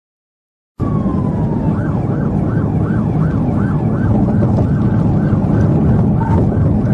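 Emergency-vehicle siren cutting in suddenly about a second in: a brief falling wail, then a fast yelp of rising-and-falling sweeps, about three a second, over a heavy low rumble of engine and road noise.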